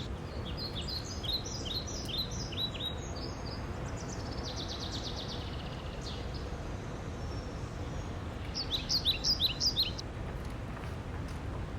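Songbirds singing over a steady low outdoor rumble. There is a phrase of quick falling chirps at the start, a rapid trill a few seconds later, and a louder run of falling chirps near the end.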